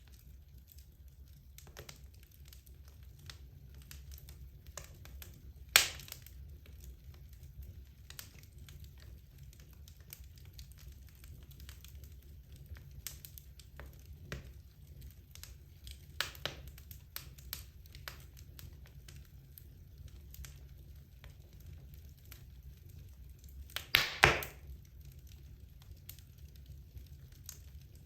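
Wood logs burning in a fireplace: a low steady rumble of the flames with scattered crackles and sharp pops. There is one loud pop about six seconds in and a quick cluster of loud pops near the end.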